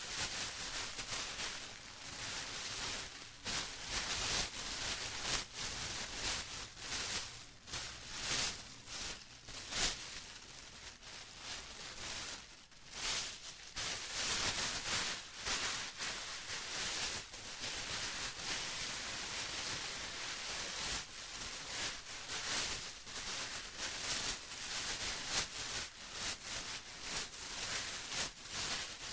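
Plastic being crumpled and rustled by hand, with continuous irregular crinkling and crackling.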